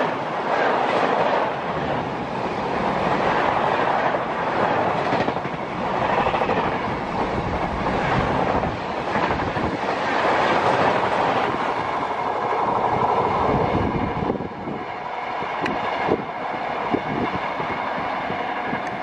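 Express passenger coaches rushing past at speed, wheels clattering over the rail joints. About fourteen seconds in the noise drops as the last coach goes by, leaving a few fainter wheel clacks as the train recedes.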